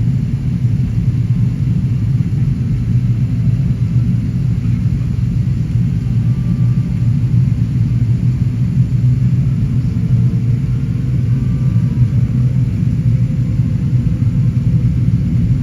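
Steady low rumble of an Airbus A380 heard from inside the cabin: the noise of its Rolls-Royce Trent 900 engines and the airflow past the fuselage, holding even with no change in pitch.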